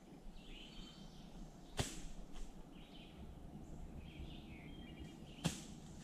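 Quiet outdoor background with faint, brief bird chirps, broken by two sharp clicks, one about two seconds in and one near the end.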